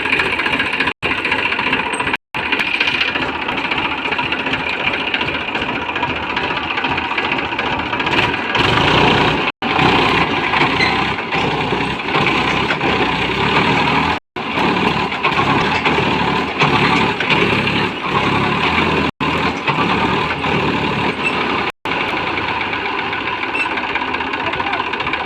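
Tractor diesel engine running steadily and loudly, getting louder for a stretch about nine seconds in, with several brief dropouts in the sound.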